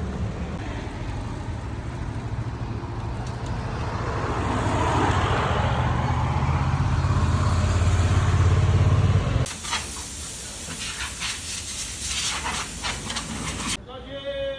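Low engine hum of a vehicle in street traffic, growing louder as it comes close. It cuts off abruptly about nine seconds in to a steady hiss with scattered clicks.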